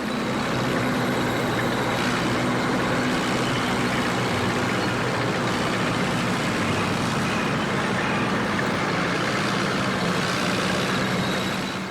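Truck engine running steadily, a rough, noisy rumble that holds at one level and cuts off just before the end.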